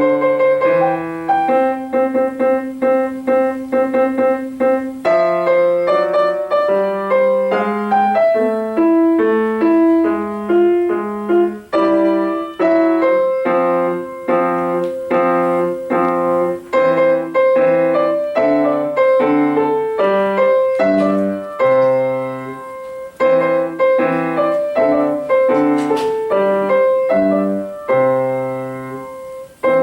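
Solo piano playing a continuous run of chords and melody, with a recurring high note sounding through, at a steady moderate pace.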